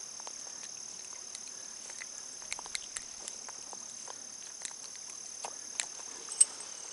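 Steady, high-pitched insect chorus, with scattered light clicks and taps close by; the sharpest click comes about six seconds in.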